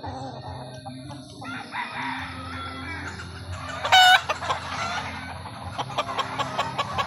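Gamefowl roosters crowing and clucking, with one loud crow about four seconds in, over a steady low hum.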